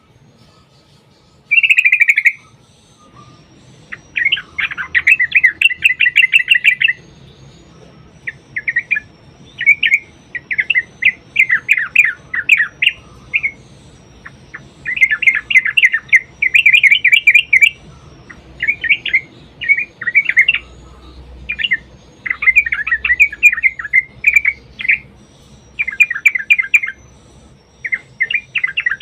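Yellow-vented bulbul (trucukan) singing its agitated 'fighting' song: loud phrases of rapid, bubbling chattering notes, each a second or two long, with short pauses between them, starting about a second and a half in.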